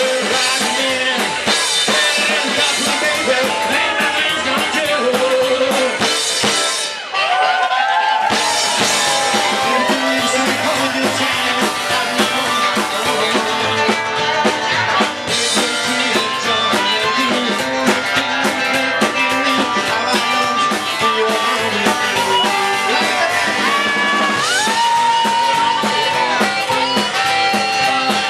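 Rock and roll band playing live, an instrumental passage with a drum kit and guitar, with a lead line bending up and down in pitch. The band drops out briefly about seven seconds in, then comes back in.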